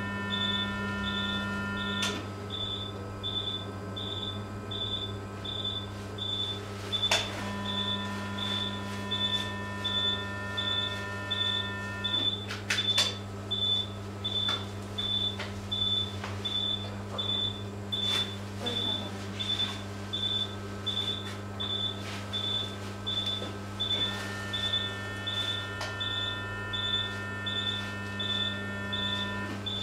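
Operating-room equipment: a short high beep repeating steadily a little faster than once a second, typical of an anaesthesia patient monitor sounding each heartbeat, over a steady electrical hum. Three times a steady chord-like tone sounds for several seconds and stops: an electrosurgical unit's activation tone as the energy instrument is fired.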